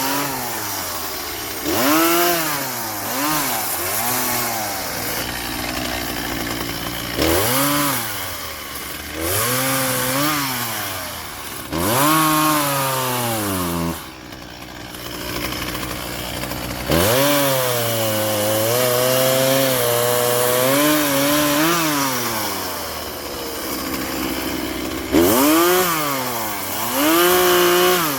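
Chainsaw revving up and dropping back again and again as it cuts into the trunk of a fallen tree, with a brief drop to idle about halfway through.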